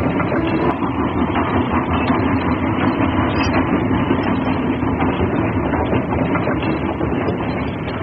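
Train running along rails, a steady rumble and clatter.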